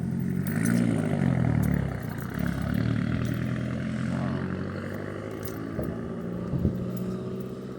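Car engine running at a drift event, revving up and back down twice in the first few seconds and then settling to a steady idle. A single sharp knock comes near the end.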